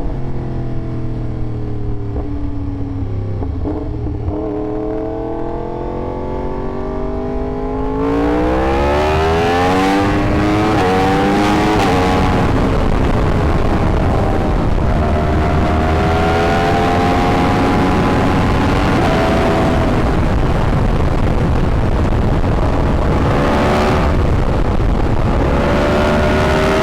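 Yamaha R1 sportbike's inline-four engine under way, its pitch easing down for the first several seconds. About eight seconds in it gets louder and revs up, then holds fairly steady with a short dip and climb near the end, over a rushing hiss of wind.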